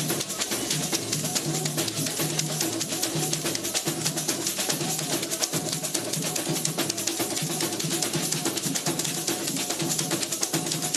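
Samba percussion (batucada) playing a fast, steady rhythm: dense rapid strikes on top and a deeper drum note repeating on the beat.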